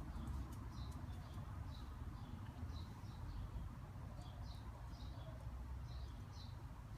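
Small birds chirping: short, high chirps in quick irregular clusters, over a steady low rumble.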